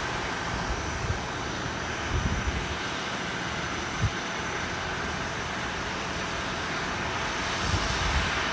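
Steady aircraft noise on an airport apron beside a parked Boeing 767 during container loading, with a few low thumps.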